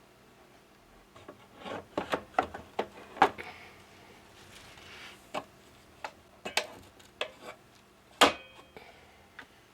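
Parts of a warm mist humidifier being handled: a quick flurry of clicks and knocks about two seconds in, then scattered single knocks, the loudest near the end.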